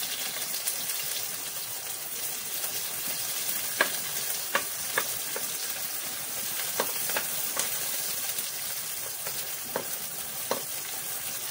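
Chopped garlic and onion sizzling in hot oil in a metal pan as they brown, stirred with a wooden spatula that clicks and scrapes against the pan several times.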